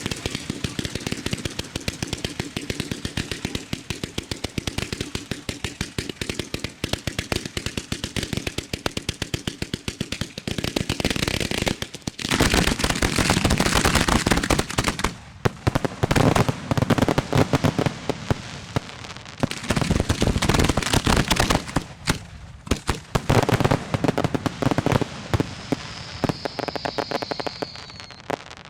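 Aerial fireworks shells firing and bursting in a rapid, continuous barrage of bangs and crackle, heard close to the firing site. The barrage swells to its densest in the middle, then thins near the end, where a high, slightly falling whistle sounds.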